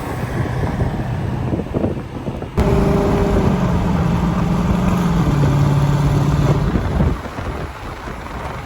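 Road and wind rumble, then about two and a half seconds in the engines go to full throttle in a roll race. For about four and a half seconds there is a loud drone that drops in pitch in steps, then it eases back to a rumble.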